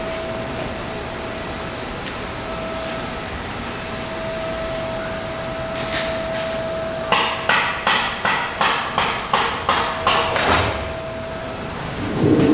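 A run of about ten sharp knocks, roughly three a second, starting about seven seconds in, over a steady hum with a faint whine.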